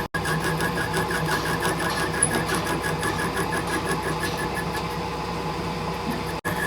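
Metal lathe running, a steady mechanical hum with a fast, even rhythmic clatter.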